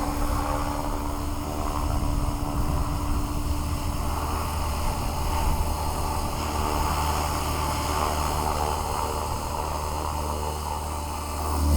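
Align T-Rex 550X electric RC helicopter in flight: a steady rotor whir over the electric motor's whine, swelling louder near the end.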